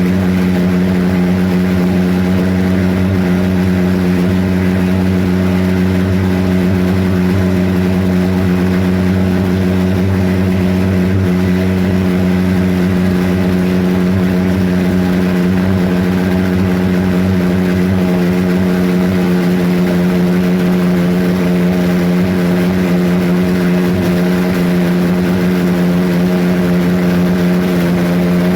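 Homemade pulse jet engine running steadily: a loud, unwavering buzzing drone at one fixed pitch.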